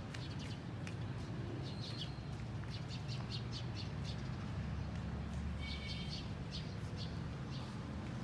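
Small birds chirping: clusters of short, high chirps come several times over a steady low rumble.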